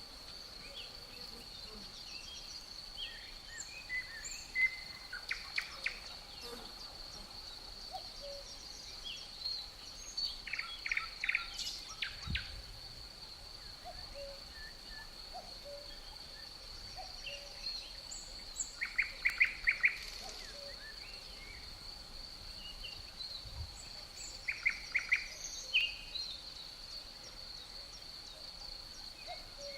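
Forest ambience: crickets keep up a steady high-pitched trill, while songbirds give scattered chirps and short trilled phrases in several bursts. The loudest burst comes about 19 seconds in.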